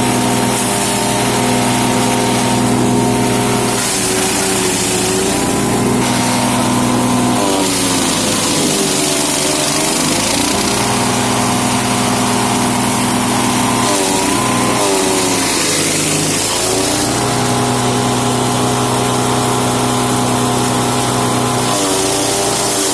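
Wood chipper's 13 hp engine running fast and loud, its pitch sagging twice as it bogs under the load of material being fed in, then picking back up. A steady hiss of chipping noise runs over it.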